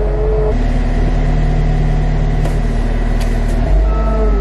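CAT compact track loader's diesel engine running steadily, heard from inside the cab. Its pitch drops about half a second in and rises again near the end.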